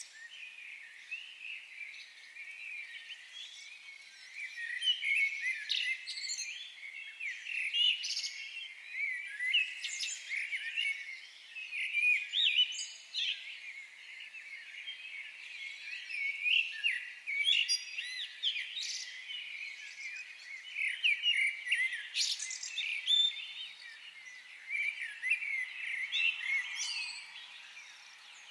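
Many small birds chirping and singing at once: a dense, continuous chorus of short, overlapping high chirps and trills.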